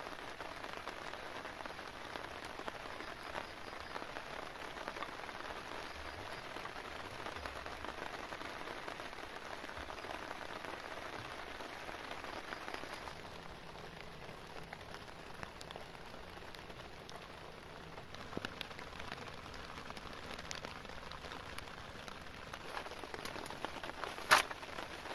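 Steady rain falling, heard from under a camping tarp. A single sharp click sounds near the end.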